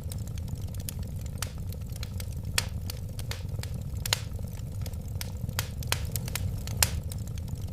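Wood fire crackling: irregular sharp pops and snaps over a steady low rumble of burning flames, with a few louder pops, the loudest near the end.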